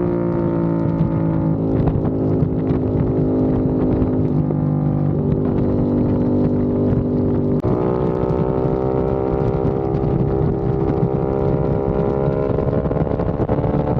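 Aprilia RS660 parallel-twin engine running through a non-resonated Mivv X-M1 Evo exhaust while riding, its deep, bassy note sagging slowly in pitch, then jumping up sharply once about halfway through and climbing gently again near the end.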